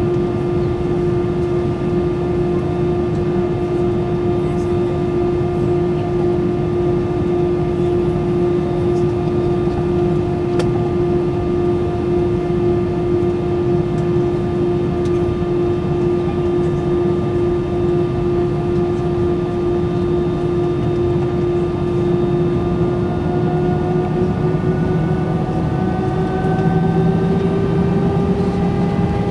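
Airbus A320's jet engines heard from inside the cabin: a steady whine over a low rumble, rising in pitch and getting slightly louder about three-quarters of the way through as thrust is increased.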